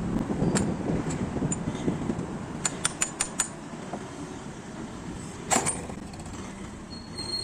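Tools at work on a truck wheel hub: sharp taps and clinks, with a quick run of five about three seconds in and a louder knock about five and a half seconds in, over a low rumble that fades during the first two seconds.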